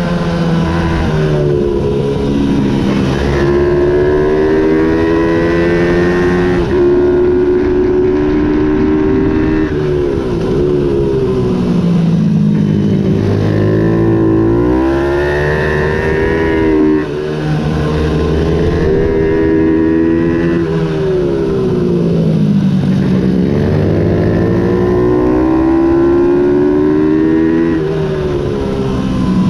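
Ohvale 110 minibike's single-cylinder four-stroke engine revving hard under racing load. It climbs in pitch, breaks briefly at each gear change, and falls away into corners, over and over.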